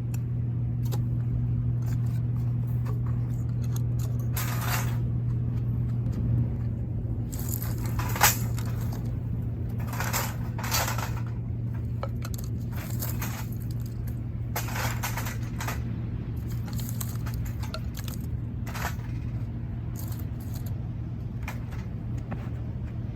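Wood fire in a metal fire stand crackling, with short sharp pops and clinks every second or two over a steady low hum.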